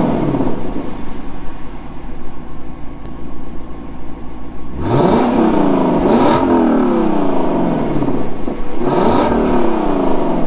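The 2023 Lexus LC500's 5.0-litre naturally aspirated V8 is revved at a standstill, heard from the rear. A rev falls back to idle right at the start and the engine idles for about four seconds. Then come three quick throttle blips, the first two close together and the third a few seconds later, each rising sharply in pitch and falling away.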